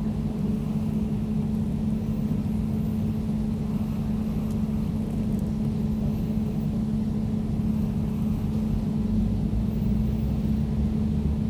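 Air conditioner running steadily: a constant hum over an even low rumble, with no change in speed.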